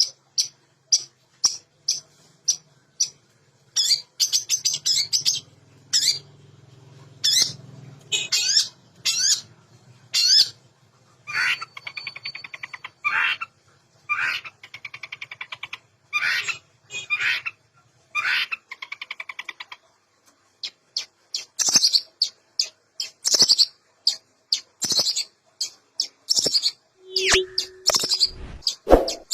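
Long-tailed shrike (cendet) singing energetically: a varied string of short, sharp high calls broken by quick chattering runs, packed with mimicked phrases of other birds.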